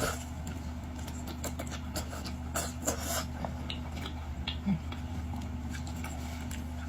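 Eating sounds: scattered small clicks and crackles of boiled shellfish being handled and eaten, with a cluster of sharper crackles about two and a half seconds in, over a steady low hum.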